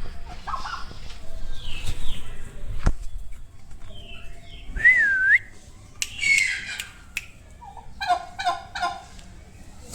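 Turkeys calling in scattered bursts, ending in a quick run of gobbling notes near the end. A single clear, wavering whistled note sounds about halfway.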